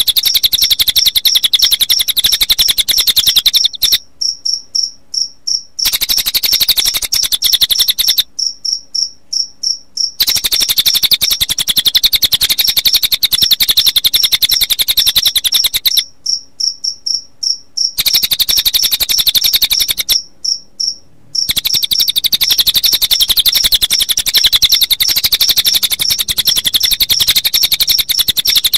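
Recorded mix of cililin birdsong and cricket chirping: a fast, high-pitched trill of rapid pulses that drops out four times for a second or two, leaving fainter separate chirps in the gaps.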